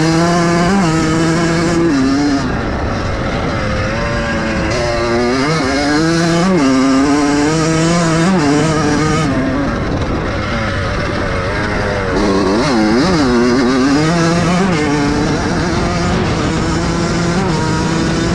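Vintage motocross bikes racing, their engines revving up and falling back again and again as the riders work the throttle, with more than one engine note heard at once.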